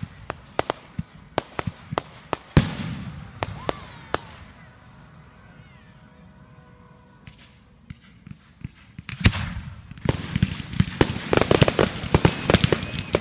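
Fireworks going off: a run of sharp bangs and pops that eases into a quieter lull, then a loud bang about nine seconds in followed by dense, rapid crackling and popping.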